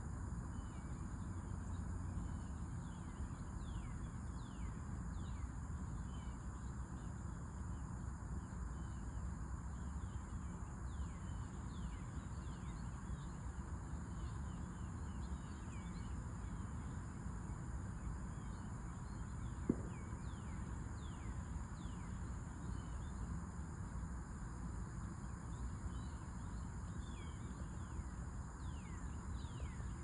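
Outdoor ambience of steady low background noise, with frequent short, high, falling chirps of small birds throughout. A single sharp click comes about twenty seconds in.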